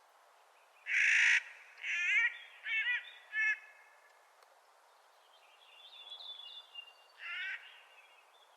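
Clark's nutcracker giving harsh crow-like calls: a loud rasping call about a second in, three shorter calls in quick succession after it, and another near the end. Fainter, higher thin notes come between them.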